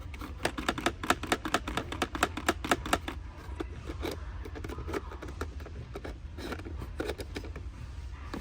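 Crisp clicks and crackles of toys and plastic packaging being handled. A fast run of about five or six a second for roughly three seconds, then scattered clicks.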